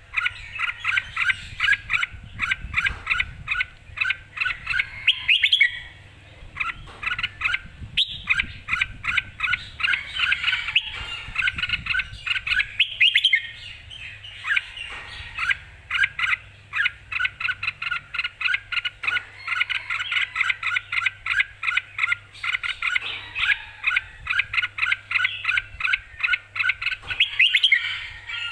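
Red-whiskered bulbul singing hard, in long runs of quick, bright chirping phrases with a short pause about a quarter of the way through: the lively, aggressive song of a bird primed for singing competition.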